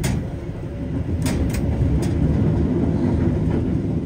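Steady low rumble of a stainless-steel economy passenger coach running along the rails, heard from inside the cabin. A few short sharp clicks come at the start and again between one and two seconds in.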